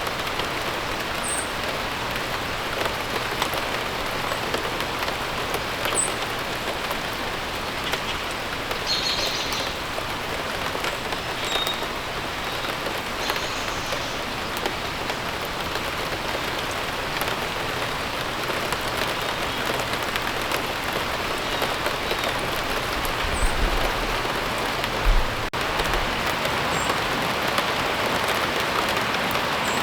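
Steady rain falling, with a few short, high bird chirps scattered through it. A brief low rumble comes near the end.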